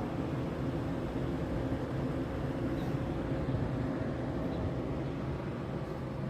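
Steady low rumble with a faint, even hum running through it, unbroken throughout.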